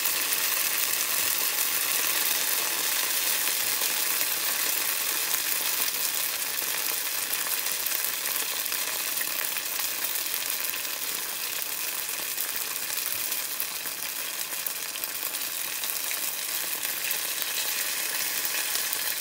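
Batter-coated eggplant pieces deep-frying as tempura in a pan of oil, giving a steady, dense sizzle and crackle. Near the end, chopsticks stir the pieces in the oil.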